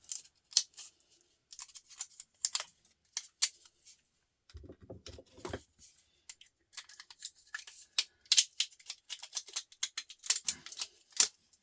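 Rapid sharp plastic clicks and rattles of laptop casing parts being handled and pried apart, getting busier in the second half, with a duller knock a little before halfway.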